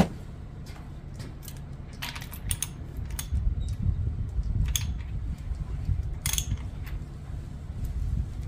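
Crankshaft of a Toyota 2AZ-FE engine being turned by hand with a wrench, turning the timing chain and sprockets. A low rumble sets in about two and a half seconds in, with scattered sharp metal clicks, as the timing marks are brought into line.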